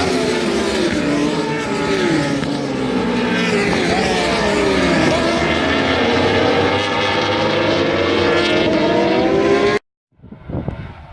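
Several superbike engines at high revs, their pitches sliding up and down through throttle and gear changes. The sound cuts off abruptly near the end and gives way to quieter, distant engine noise.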